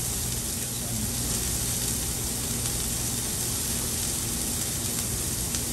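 Diced green bell peppers sizzling in oil on a hot flat-top griddle: a steady hiss, with a low steady hum underneath.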